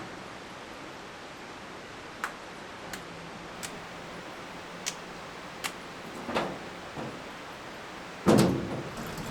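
Steady rush of running water with a handful of sharp clicks and knocks, then one heavy thump near the end that rings on briefly.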